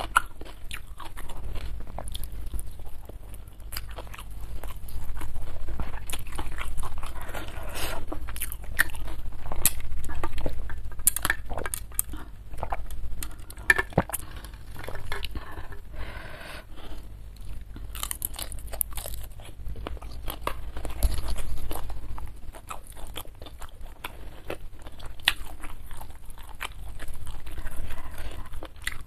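Close-miked chewing and crunching of a mouthful of food, rice with sambal and raw vegetables eaten by hand, with irregular crunches and wet mouth clicks.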